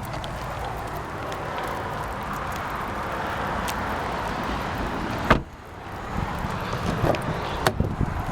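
Steady rain pattering, with one loud thump about five seconds in, after which the rain briefly sounds quieter, and a few lighter knocks near the end.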